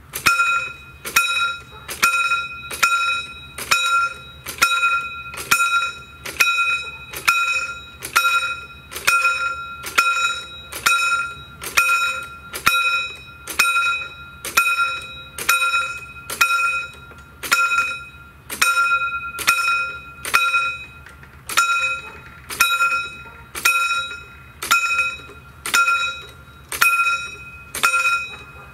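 Railway level-crossing warning bell ringing in a steady, even run of strokes, starting abruptly at the outset: the crossing's warning has been activated for an approaching train.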